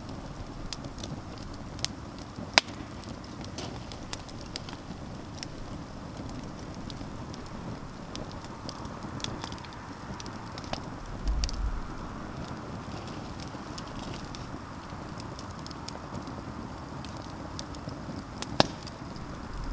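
Outdoor campfire crackling: irregular sharp pops over a steady hiss, the loudest pops about two and a half seconds in and near the end. A brief low thump about halfway through.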